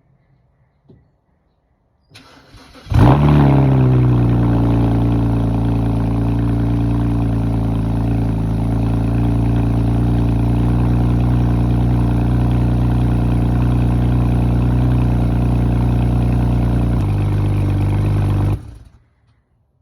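BMW 335i (E92) turbocharged 3.0-litre straight-six cold-starting. About two seconds in the starter cranks briefly; the engine catches with a loud flare and settles into a fast cold idle, its pitch easing down over the first seconds. Near the end the idle steps down, then the engine is switched off.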